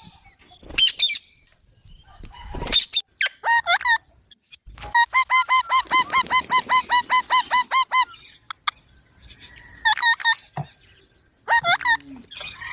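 Green parrot calling: a few short harsh squawks, then a rapid run of about a dozen repeated screeches, roughly four a second, lasting about three seconds. More short squawks follow near the end.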